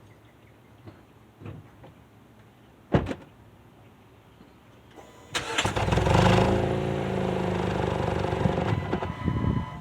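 A sharp thump about three seconds in, then a Mazda CX-5's engine cranks and starts a little past five seconds in, settling into a steady idle.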